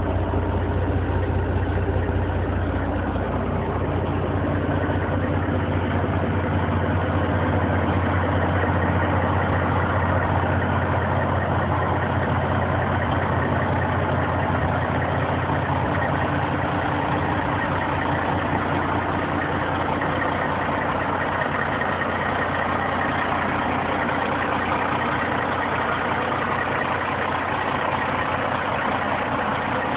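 Caterpillar C-15 inline-six diesel in a Peterbilt 389 idling steadily. Its deep low drone eases off a few seconds in.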